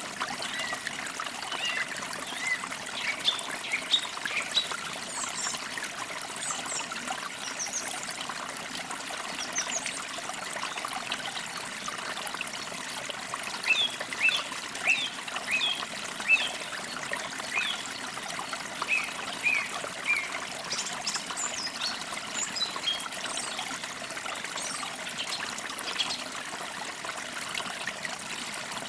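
Birds chirping and twittering in short repeated phrases, coming in clusters, over the steady sound of a small stream trickling.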